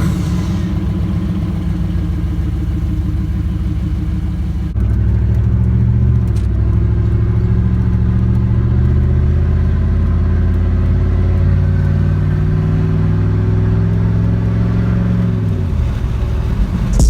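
1996 Chevy Silverado C1500 engine idling through a straight-piped exhaust with the muffler deleted, just after starting. The idle is steady and gets suddenly louder about five seconds in.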